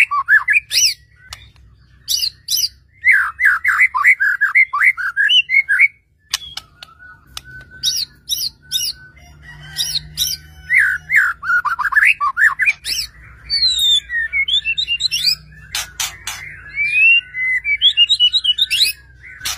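White-rumped shama singing a loud, varied song: fast runs of sweeping whistles and chirps, with sharp clicking notes. The runs are broken by short pauses.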